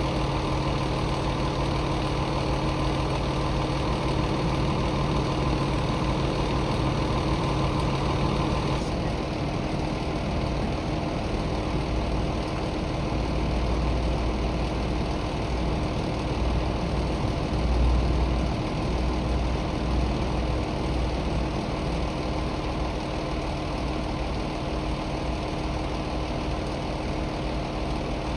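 Vehicle engine idling steadily. One of its tones stops about nine seconds in, and a deeper low rumble swells in the middle.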